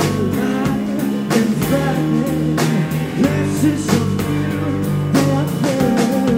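Live rock band playing an instrumental passage: electric guitar with bending notes over bass and a steady drum kit beat.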